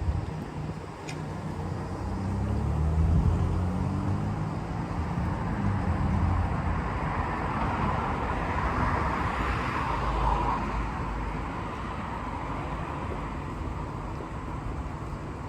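Street traffic: a car passes, its noise swelling to its loudest about nine to ten seconds in and fading again, over a steady low rumble of wind on the microphone.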